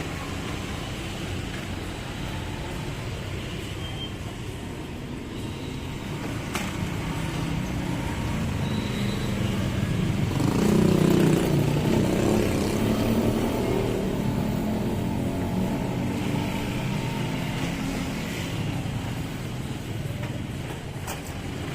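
Heavy truck's diesel engine running as the truck moves slowly along the road. The engine grows louder to a peak about halfway through, then eases off.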